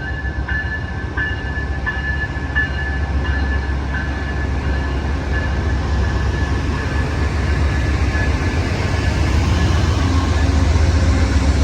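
Amtrak Coast Starlight diesel-electric locomotives, an ALC-42 Charger leading with a P42, accelerating out of the station. A deep engine rumble and rail noise build steadily louder, with a ringing tone that pulses just under once a second over the first few seconds.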